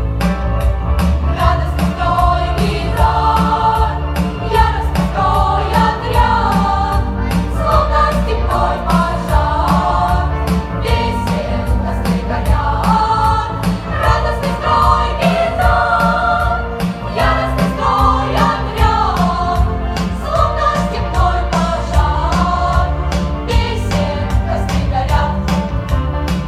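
Children's choir singing a song in unison over a backing track with a steady beat and strong bass.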